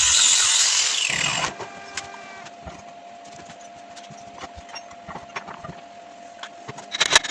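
A power tool cutting, switched off about a second and a half in, its pitch falling as it winds down. Light clicks and knocks of parts being handled follow, with a cluster of sharper clicks near the end.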